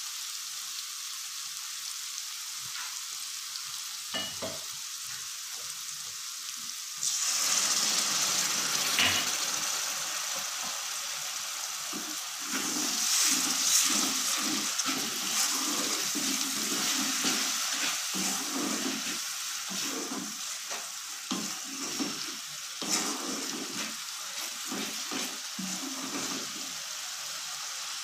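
Spice masala frying in hot oil in a pan with a steady sizzle, being fried down until the oil separates. About seven seconds in the sizzle gets louder. From about twelve seconds a spatula stirs and scrapes it in quick repeated strokes.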